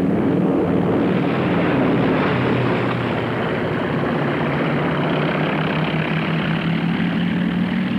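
Propeller aircraft engines droning as the plane flies low past, their pitch falling slightly through the pass.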